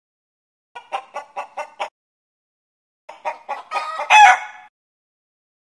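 Chicken clucking: five short clucks about a second in, then a faster run of clucks that builds to one louder, longer call.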